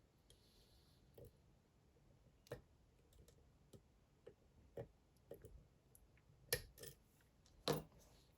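Faint, irregular metallic clicks and ticks of a lock pick working the pins inside a Dom IX Twinstar cylinder lock under tension, with a couple of louder clicks near the end.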